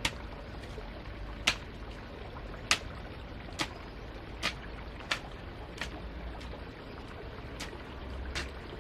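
A series of sharp taps or knocks at uneven intervals, roughly one a second, over a low steady rumble.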